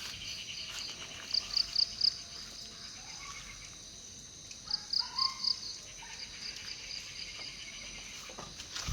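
Outdoor animal sound: a steady high insect drone with several groups of short, high, rapid chirps.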